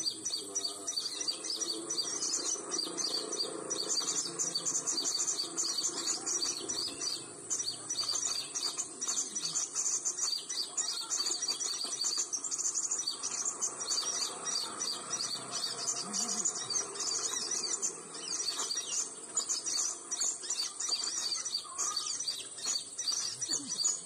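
Dense, high-pitched bird chirping: rapid repeated notes that keep going without a break, over a steady high whine.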